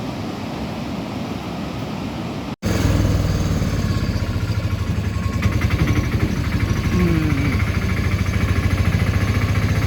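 Steady background noise, then an abrupt cut about two and a half seconds in to a vehicle engine running with a fast, even pulse.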